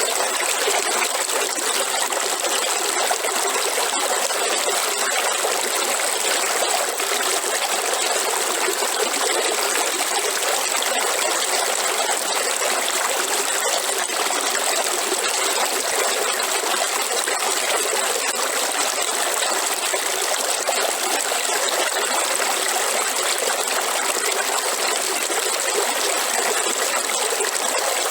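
Waterfall: water falling and rushing in a steady, unbroken hiss with little low rumble.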